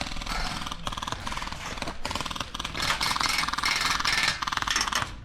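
Continuous rubbing and scraping noise with a fast, fine crackle throughout.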